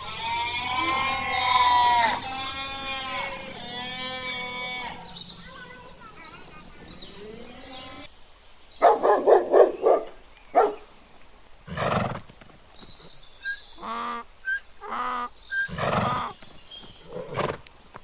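Farm animal calls: bleating goats or sheep for the first few seconds. About eight seconds in the sound changes abruptly to a series of short, separate animal calls and knocks.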